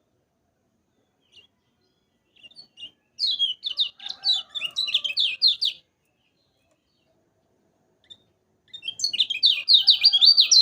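Kecial kuning, a white-eye, singing in two bursts of rapid, high chattering notes, one about three seconds in and a louder one near the end.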